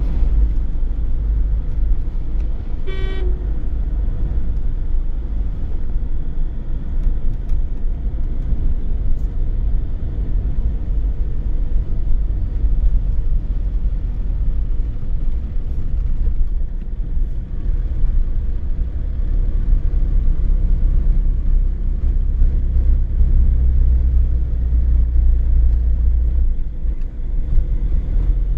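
Car driving along a road: a steady low rumble of engine and road noise, with one short horn toot about three seconds in.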